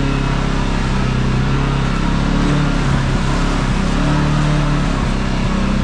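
Kawasaki KRX side-by-side's parallel-twin engine running under way, its revs rising and falling, over a steady rush of wind and trail noise.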